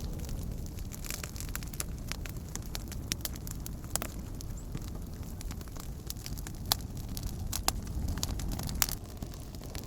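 Wood campfire crackling, with irregular sharp pops over a steady low rumble; the loudest pops come near the end.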